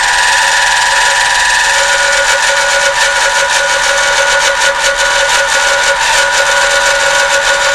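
Milling machine taking an edge-milling pass of 5 to 10 thousandths along the side of a metal workpiece: a loud, steady, high-pitched whine with several tones over a hiss, as the cutter skims off the saw marks.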